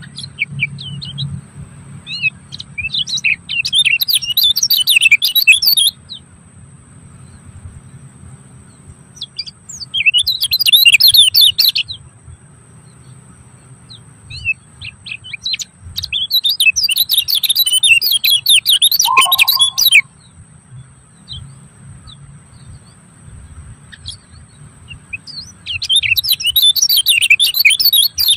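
A songbird singing in long phrases of rapid twittering chirps, four phrases of two to four seconds each with pauses between, over a faint low hum.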